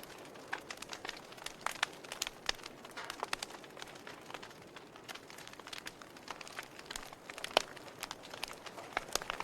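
Campfire crackling: irregular sharp pops and snaps over a soft steady hiss, with one louder pop about three-quarters of the way through.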